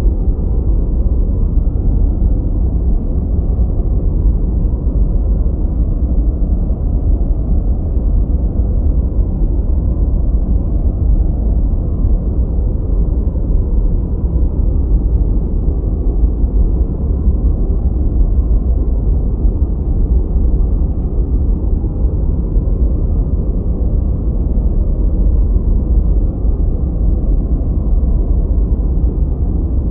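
Continuous deep, muffled rushing noise played as a study and sleep noise track, steady and unchanging, with no high hiss.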